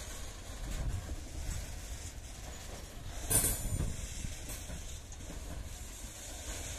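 A goods train's covered freight wagons rolling past with a steady low rumble and clatter of wheels on the rails. About three seconds in, a brief high metallic squeal rises above the rumble.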